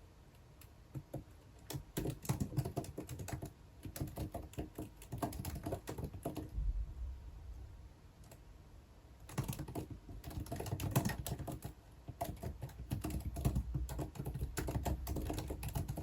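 Typing on a computer keyboard: two runs of quick keystrokes, a few seconds each, with a pause of about two seconds between them.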